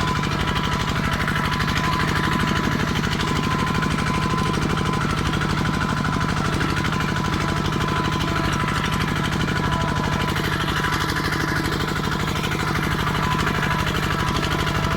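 Kubota tractor's diesel engine running steadily with a rapid, even clatter.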